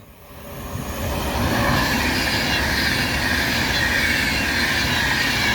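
Class 390 Pendolino electric train running past, a rush of wheel and air noise that builds over the first second or so and then holds steady.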